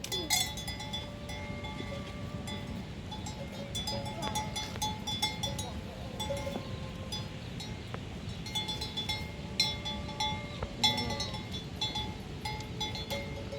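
A metal livestock bell clanking irregularly again and again, ringing at the same few pitches each time, as the animal wearing it moves.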